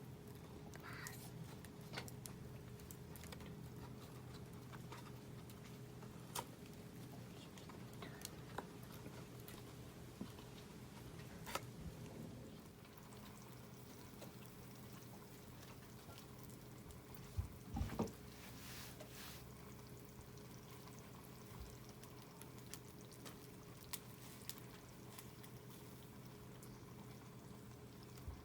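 Scrap-lumber campfire crackling with sparse sharp pops, over a soft steady liquid sound of canned food simmering on the flames. A short cluster of louder knocks comes about 18 seconds in.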